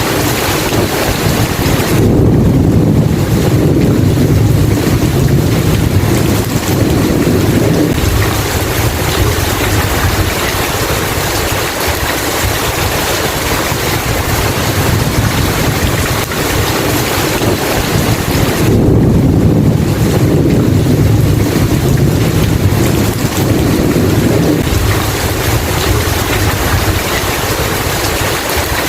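Steady heavy rain with two long, slow rolls of thunder, one starting a couple of seconds in and the other about two-thirds of the way through, each rumbling for several seconds.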